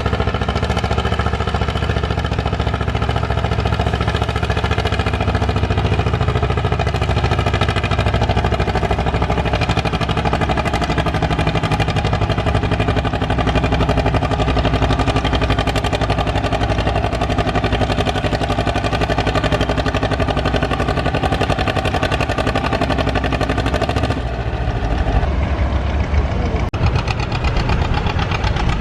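Farm tractor engine running steadily with a knocking beat; the sound changes abruptly about 24 seconds in.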